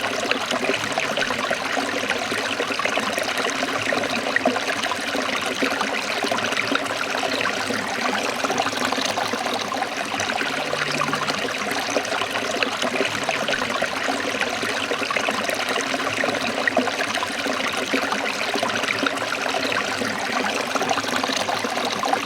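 Small stream trickling and splashing over rocks: a steady, even rush of running water.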